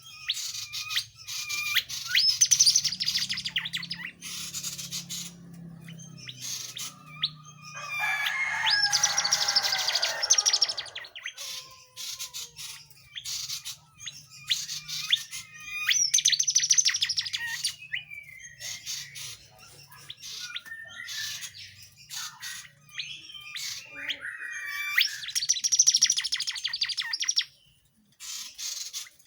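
Tledekan songbird singing in about four bursts of rapid, high chattering notes, with short pauses between them. This lively ('gacor') song is the kind used as a masteran recording for tutoring other songbirds.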